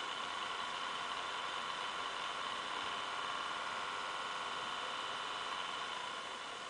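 Acer Aspire 5755G notebook's cooling fan running loud at high speed, a steady whirring whine that eases slightly near the end. The noise is the fault the owner complains of: an overly loud, annoying fan under heat.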